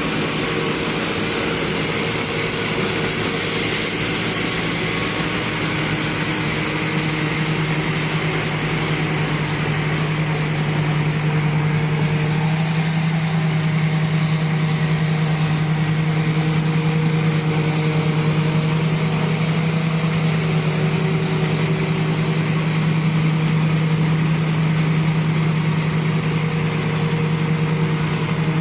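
Combine harvester's engine running steadily, a continuous drone that grows slightly louder about eleven seconds in.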